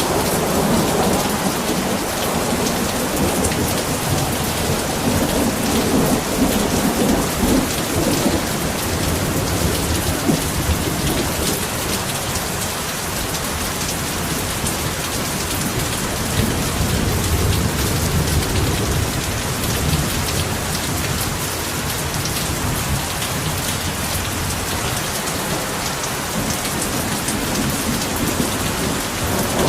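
Heavy rain pouring steadily, with low rumbles swelling up twice.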